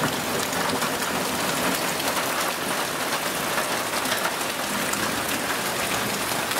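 Heavy summer downpour: a steady, dense hiss of rain falling on trees and ground, with fine ticks of close drops throughout.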